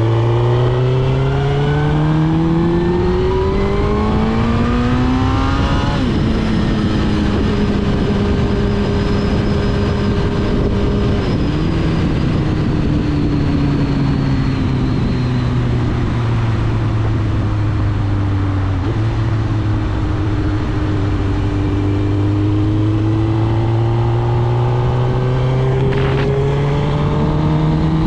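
2006 Suzuki GSX-R1000 K6's inline-four through a full Akrapovič titanium exhaust, accelerating hard with the revs climbing over the first few seconds, then shifting up about six seconds in. It then runs at steadier revs that ease down slowly and climb gently again toward the end.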